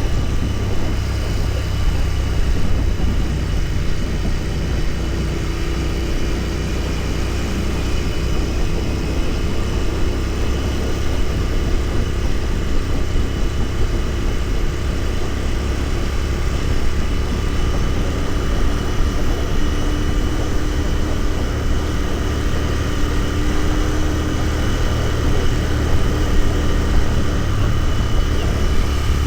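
Royal Enfield Continental GT 650's 648 cc parallel-twin engine running at a steady cruise, with heavy low wind rumble on the microphone.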